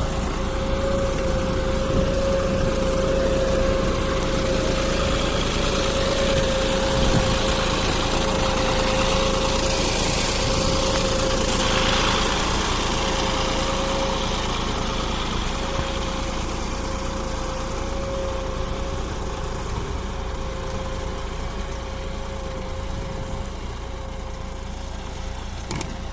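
John Deere 5405 tractor's three-cylinder diesel engine running steadily while pulling a plough, with a steady high whine over the engine note. A brief rise of hiss comes about halfway through.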